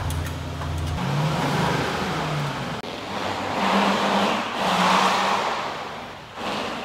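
Mercedes-Maybach S580's 4.0-litre V8 running and being revved, rising in two swells about four and five seconds in, then settling down.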